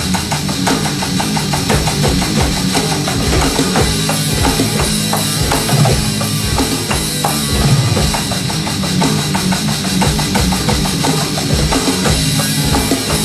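Rock band playing live in an instrumental passage, a busy drum kit with bass drum and snare loudest over the other instruments.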